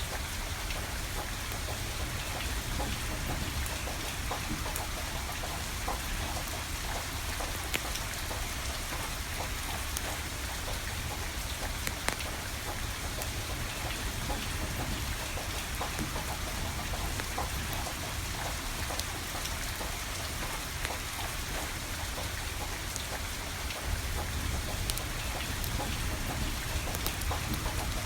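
Steady rain falling, with a wood fire crackling through it: an even hiss scattered with many small, sharp pops and ticks, over a low steady rumble.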